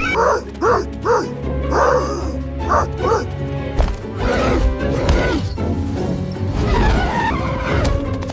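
A dog barking and yipping in a series of short calls over background music.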